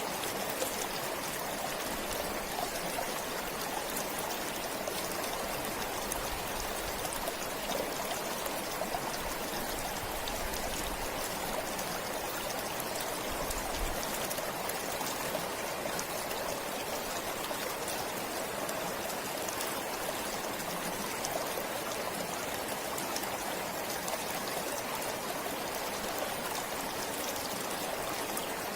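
A forest stream flowing steadily, an even rush of water with small splashes and trickles.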